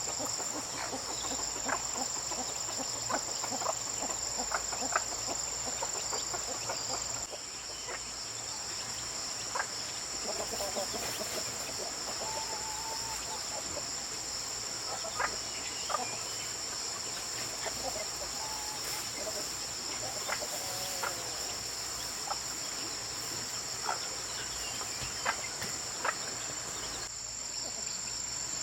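Chickens clucking now and then, with a few short clicks, over a steady high chorus of crickets and insects.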